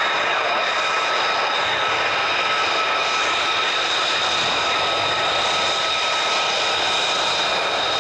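Military jet engine running steadily, a constant roar with a high, even whine over it.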